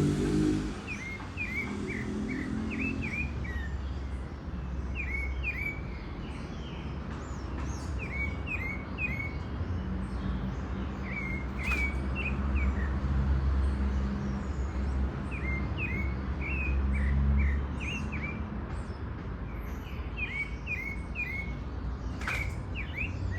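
A songbird singing short phrases of four or five quick downslurred notes, repeated every few seconds, over a steady low rumble.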